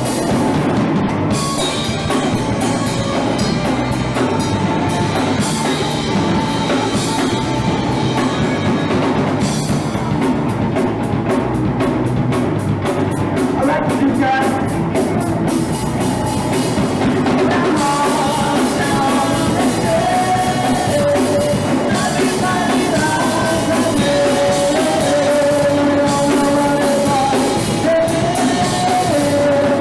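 Punk rock band playing live: a drum kit driving the beat under singing and the rest of the band, loud and without a break.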